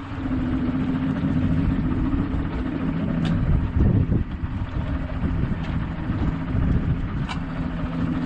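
Boat outboard engines idling with a steady low hum, while wind buffets the microphone.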